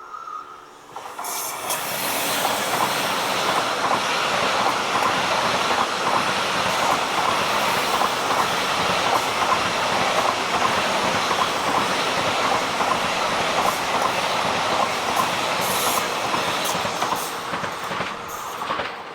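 ICE high-speed train passing: a steady rush of wheel and air noise that swells about a second in, with a regular clickety-clack of the wheelsets running over rail joints, and fades near the end.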